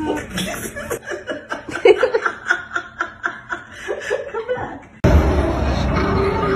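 Chuckling laughter in many short, broken bursts. About five seconds in it cuts off abruptly to a steady noisy background with one held tone.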